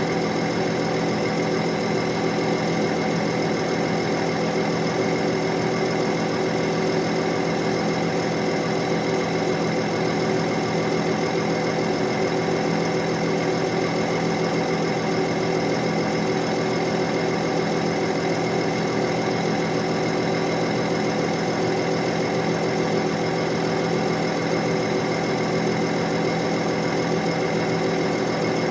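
Diesel engine of a CAT 312D excavator running at a steady speed, with an even, unchanging drone.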